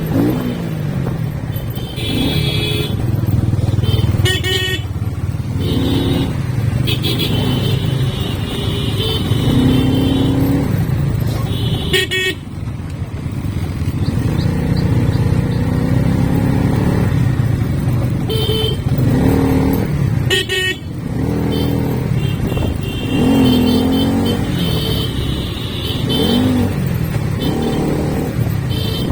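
Motorcycle engine running on the move, its pitch rising and falling with the throttle, while vehicle horns honk several times.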